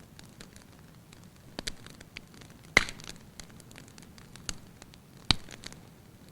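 Wood fire burning in a fireplace, crackling with scattered small snaps over a low hiss. Two louder sharp pops stand out, one near the middle and one about a second before the end.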